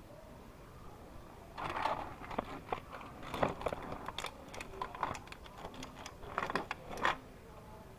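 Close-up biting and chewing of a fried crawfish boudin ball dipped in ranch: crunching and wet mouth clicks, starting about a second and a half in and stopping about a second before the end.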